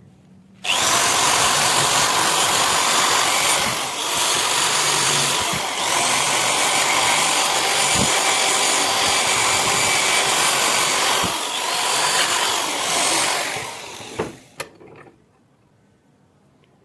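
A handheld power tool running against the steel of rusted garden shears, such as a drill or rotary tool with a sanding, brushing or polishing attachment. It starts abruptly about a second in, runs steadily for about thirteen seconds, and winds down near the end with a couple of short knocks.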